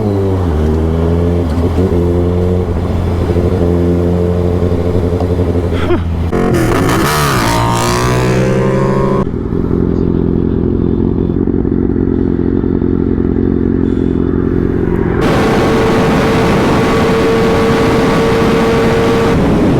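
Sport motorcycle engine running, its pitch rising and falling a few times as the throttle is worked, with the sound changing abruptly about nine and fifteen seconds in.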